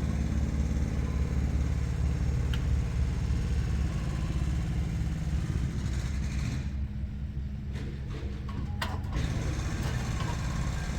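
Heavy diesel truck engine idling steadily, with a couple of faint clicks.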